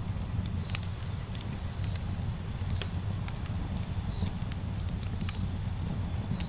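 Campfire burning: a steady low rumble with scattered sharp crackles and pops. A short high chirp repeats about once a second over it.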